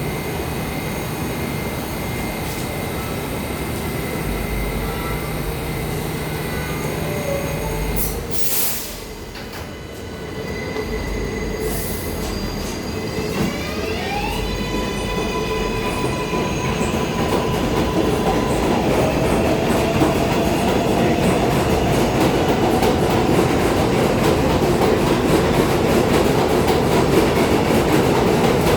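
New York City subway train running through the station. About halfway through, its motors whine up in pitch and then hold a steady tone, while the train noise grows louder toward the end.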